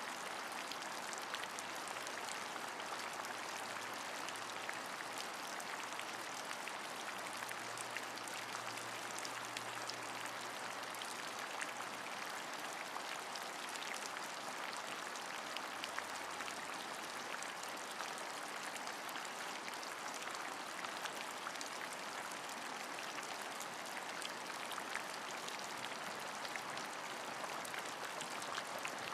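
Steady rain, an even hiss scattered with many small drop ticks, with no change in strength.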